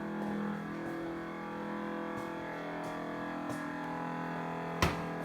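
Frigidaire Gallery refrigerator making an odd, steady hum of several held tones, some shifting slightly in pitch, with one sharp click near the end. The owner takes it as a possible failure and suspects the fan has died.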